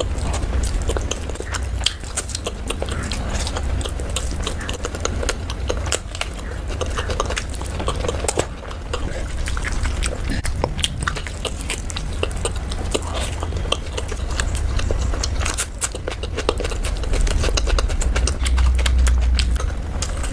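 Close-up eating sounds of chicken curry and rice being chewed: a dense, irregular run of small wet clicks and smacks over a steady low rumble.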